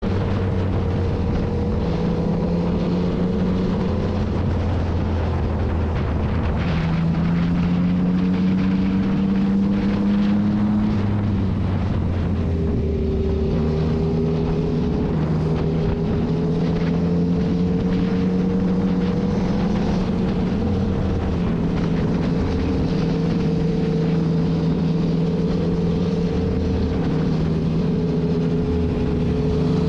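Motorcycle engine running on the road, its pitch stepping and gliding up and down with throttle and gear changes, over a steady rush of wind.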